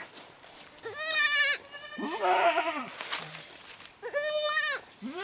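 Goats bleating: two loud, high, wavering bleats about three seconds apart, with a lower, shorter bleat between them.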